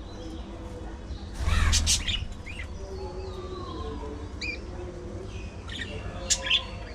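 Budgerigars chirping and squawking in short, sharp calls scattered through, the loudest burst about one and a half seconds in.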